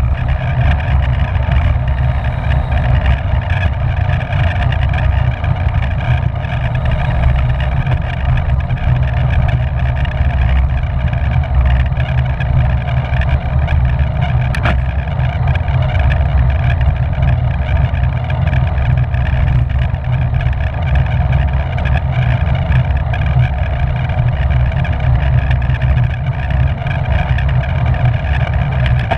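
Steady rush of wind and road noise on the microphone of a camera riding on a racing bicycle at speed, with a heavy low rumble and one faint click about halfway through.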